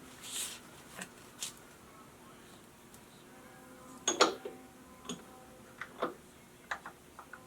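Scattered metal clicks and knocks of tools and parts being handled at a milling machine, the loudest a quick double knock about four seconds in, after a brief hiss at the start. A faint steady machine hum runs underneath.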